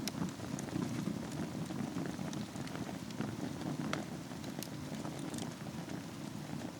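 Wood fire with embers burning in a fireplace: a steady low rush of flames with scattered crackles and a few sharper pops, one of the loudest about four seconds in.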